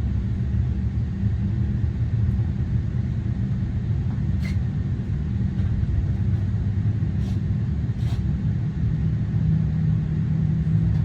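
Steady low rumble of an Embraer 175's cabin while parked at the gate, with the air-conditioning hum and a few faint clicks. A steadier hum joins in near the end.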